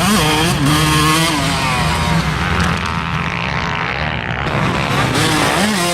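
Motocross dirt bike engines revving, their pitch rising and falling again and again with the throttle over a steadier low engine drone.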